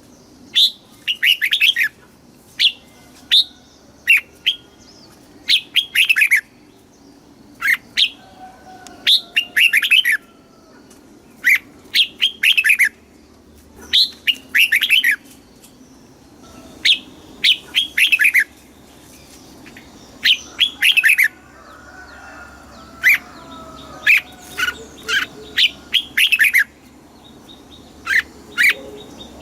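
Red-whiskered bulbul singing: short phrases of quick, bright notes, repeated every second or two with brief pauses between.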